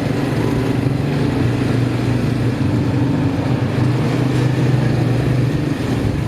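Motorcycle engine running at a steady speed while riding, a low even hum over road and wind noise. The hum eases a little near the end.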